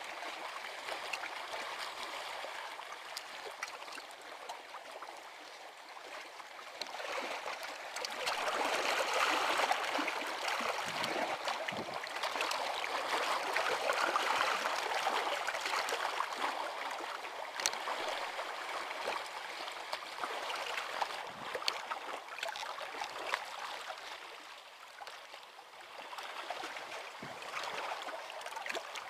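Water trickling and gurgling in the shallows, swelling louder for several seconds in the middle, with a few faint splashes and clicks.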